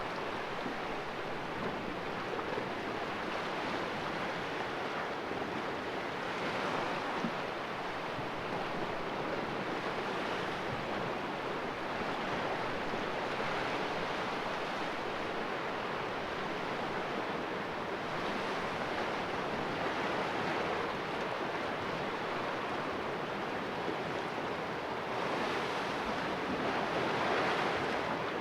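Sea waves splashing in a small cove: a steady wash of surf that swells every few seconds, the strongest swell near the end.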